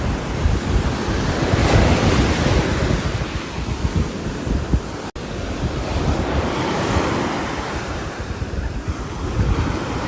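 Rain and wind noise on a roof, a steady rush that swells and eases every few seconds. A split-second dropout comes about halfway through.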